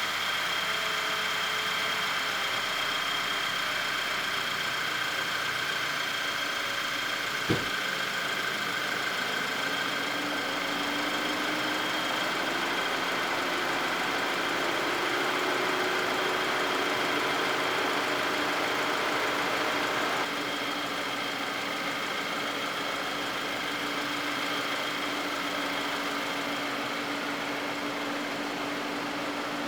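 Audi 2.0 TFSI four-cylinder turbo petrol engine idling steadily and evenly with a freshly replaced PCV valve (crankcase breather/oil separator), its lean-idle fault cured. A single sharp click comes about seven and a half seconds in.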